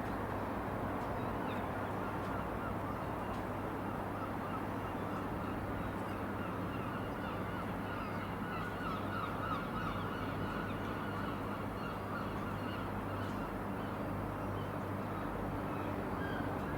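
Robinson R66 helicopter's turbine engine running: a steady whine over a constant low hum, the whine growing stronger about halfway through.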